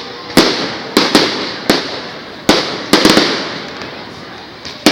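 Fireworks going off: a rapid, irregular string of about ten sharp bangs, each trailing off as it fades, with a lull of about a second before a last pair near the end.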